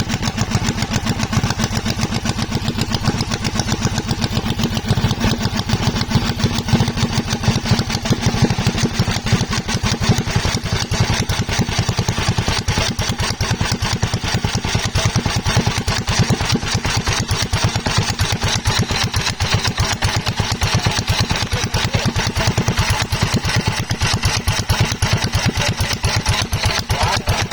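Honda 13 hp single-cylinder gasoline engine running steadily, its rapid even firing beats continuing without a break.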